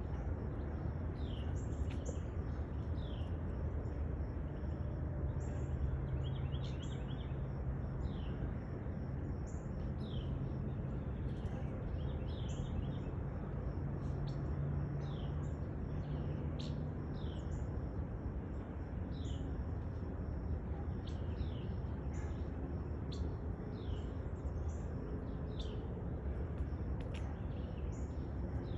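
Small birds chirping: short, high, falling chirps repeated about once a second, over a steady low rumble.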